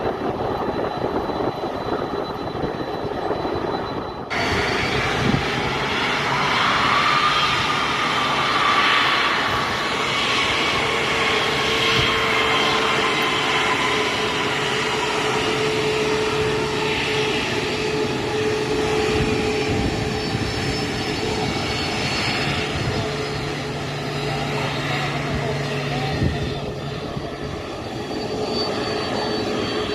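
Boeing 767-300F jet engines running on the ground, a steady jet whine over a rumble. About four seconds in the sound jumps abruptly, and soon after a whine rises, then slowly falls away.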